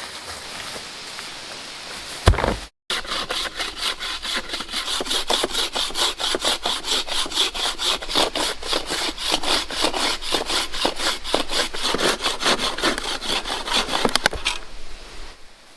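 A hand saw cutting through wood in rapid, even back-and-forth strokes for about eleven seconds, after a knock near the start.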